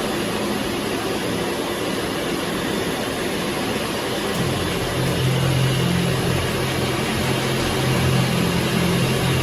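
Jet aircraft engine running with a steady rushing noise; a low hum joins about halfway through.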